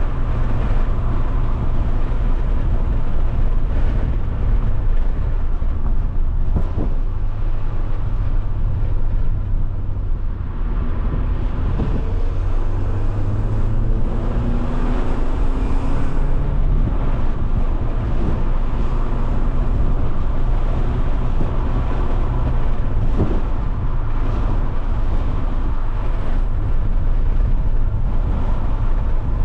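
Alfa Romeo 156's 1.8 Twin Spark four-cylinder engine running while the car is driven, with road and wind noise. Around the middle the engine note climbs as the revs rise, then settles into a steady drone.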